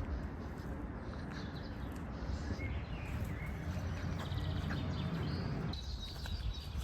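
Small birds chirping in short calls over a steady low rushing noise, which drops away near the end while a burst of chirps comes through more clearly.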